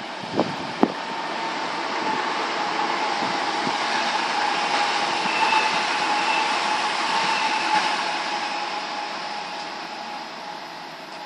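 Electric multiple-unit passenger train passing along the far platform track, a rush of wheel and running noise that swells and then fades as it goes by, with a steady whine running through it. Two short sharp knocks right at the start.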